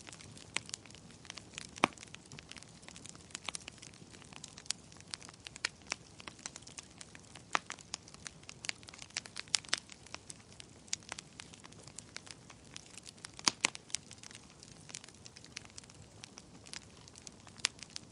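Wood fire in a fireplace crackling, with irregular sharp pops and snaps over a soft steady hiss of flame.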